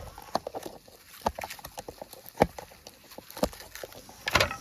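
Irregular knocks and clicks of cookware and utensils being handled and set down, with a louder clatter near the end.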